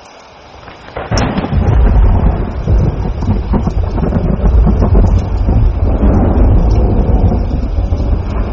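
A thunderclap breaks suddenly about a second in, then rolls on as a long, heavy low rumble, over steady rain.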